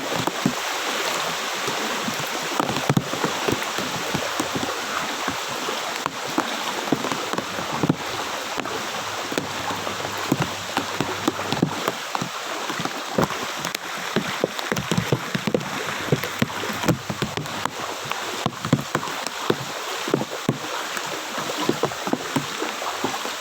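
Shallow floodwater sloshing and splashing, with frequent sharp splashes, as of wading through water about 30–40 cm deep.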